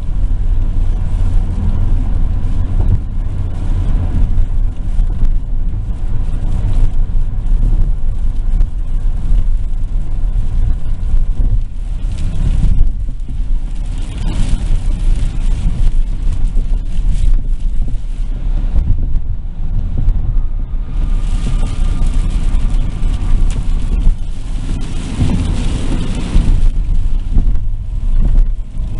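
Car road noise heard from inside the cabin while driving on a rain-soaked road: a steady low rumble of engine and tyres. A louder hiss swells up a little under halfway through and again for several seconds near the end.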